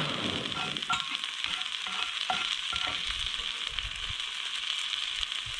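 Food sizzling steadily in a frying pan, with several light clinks of a utensil against the pan or bowl in the first few seconds.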